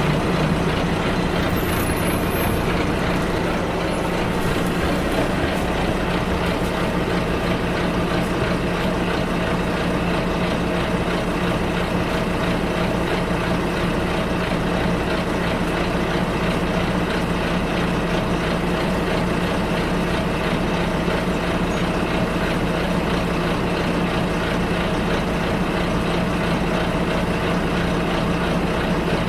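Bus engine and road noise heard from inside the moving bus: a steady hum over a constant rumble.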